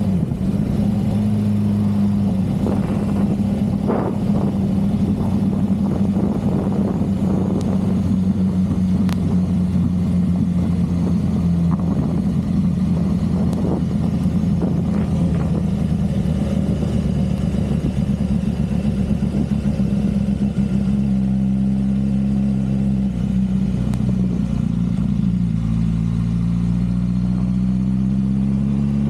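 Motorcycle engine running at a steady, low pace on a slow ride. Its note sags slightly past the middle, then drops and climbs again near the end as the engine speed changes.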